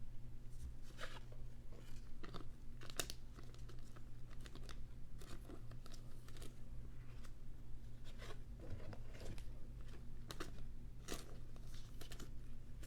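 Trading cards being slid into thin plastic penny sleeves: irregular crinkles, rustles and light clicks of plastic being handled, over a steady low hum.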